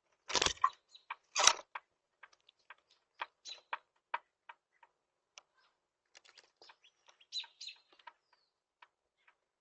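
Small birds chirping, with a scatter of short taps or pecks. Two loud knocks come in the first second and a half.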